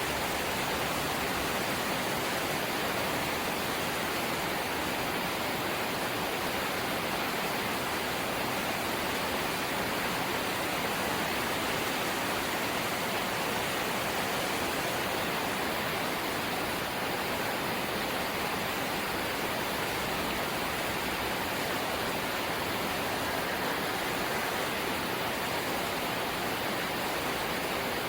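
Rain falling steadily on a corrugated zinc roof, an even, unbroken hiss with no separate drops or thuds standing out.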